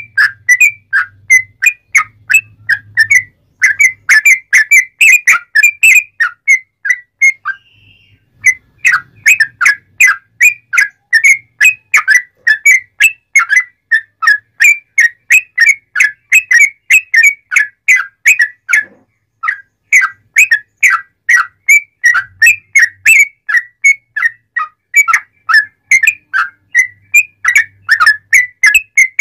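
Sooty-headed bulbul (trucuk) singing loudly: a fast run of short whistled notes, about three or four a second, broken by a brief pause around eight seconds in.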